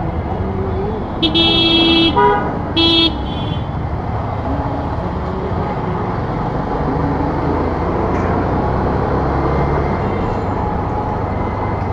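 A vehicle horn honks twice in a traffic jam: a blast of almost a second about a second in, then a short one a second later, over steady engine and road noise.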